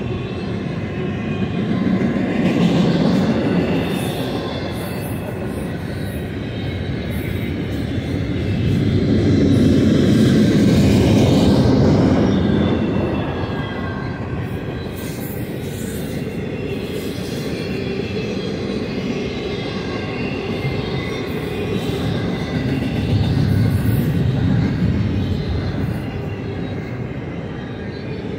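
BNSF double-stack intermodal container cars rolling past on the main line: a steady rumble of steel wheels on rail that swells louder three times as cars go by, with a faint high-pitched wheel squeal over it.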